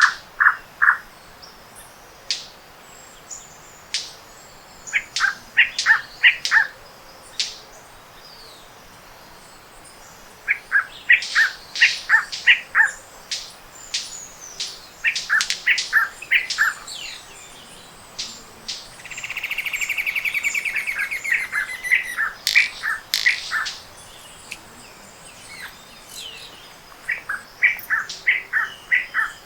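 Morning chorus of tropical forest birds: repeated runs of short, sharp chirping notes from several birds, with a buzzy rattle lasting about two seconds roughly two-thirds of the way through.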